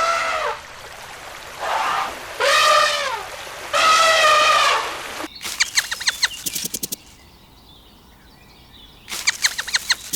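Sheep bleating, four high calls in the first half, each rising and falling in pitch. Then a rapid pulsed rattling sound comes twice.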